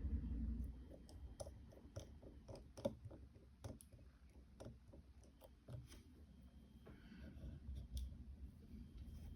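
Faint, irregular light clicks and ticks of small hand tools (a precision screwdriver and tweezers) on the tiny screws and metal parts inside an iPhone SE during disassembly.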